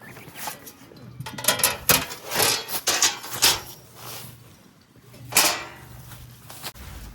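Rustling and light clattering, as of camping gear being handled, in a quick run of short bursts, then one more burst about five seconds in.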